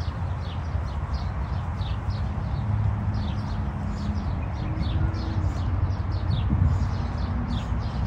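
Small birds chirping over and over, short high downward chirps several a second, over a steady low rumble.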